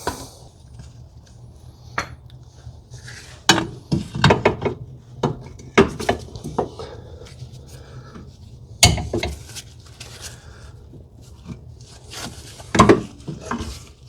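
Irregular metal clanks and knocks of steel suspension parts and tools being handled, as the lower control arm is worked toward its mounting, with the loudest knocks a few seconds in, near the middle and near the end.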